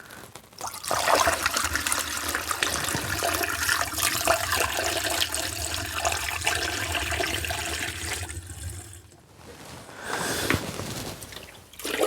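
Water poured into a vintage car's radiator, a steady gushing and gurgling that runs for several seconds, stops, then comes again briefly near the end.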